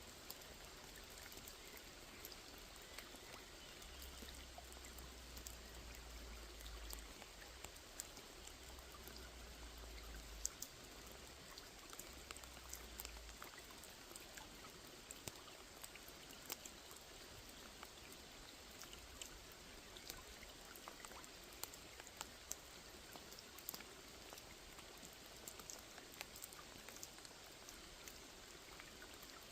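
Rain falling on a pond: a steady faint hiss with many separate drops ticking on the water. A low rumble comes and goes during the first half.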